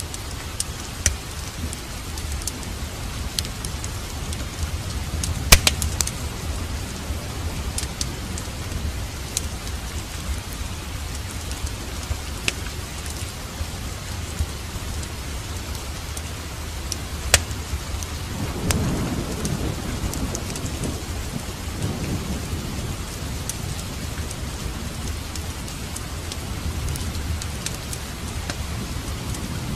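Steady rain with scattered sharp crackles and pops from a fireplace log fire. About two-thirds of the way through, a low roll of thunder rumbles for a few seconds.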